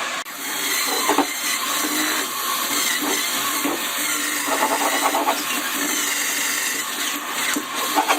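Electric power tool running steadily, breaking off near the end into a few knocks.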